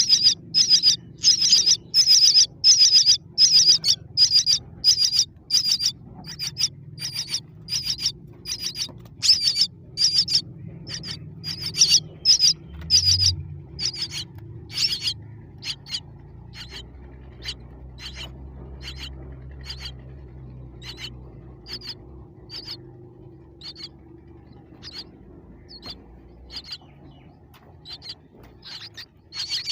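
Baby birds chirping, short high-pitched calls repeated about twice a second, loud at first and growing fainter about halfway through.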